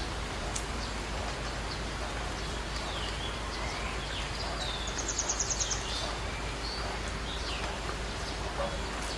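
Wild birds calling: scattered short, high swooping notes, and about five seconds in a quick trill of high chirps, over a steady outdoor background hiss.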